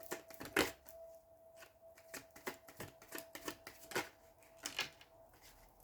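Tarot cards being shuffled by hand: a run of quick, irregular card slaps and flicks, with a faint steady tone underneath.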